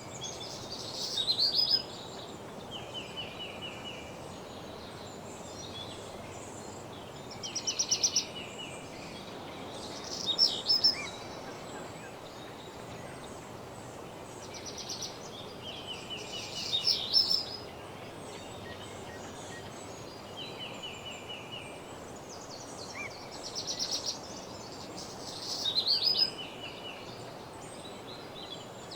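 Woodland songbirds singing: short high trills and chattering phrases that recur every few seconds, over a steady low background hiss.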